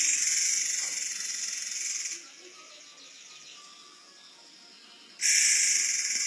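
Forktail (murai air) giving long, shrill, very high-pitched screeching calls: one fades out about two seconds in, and another starts about five seconds in.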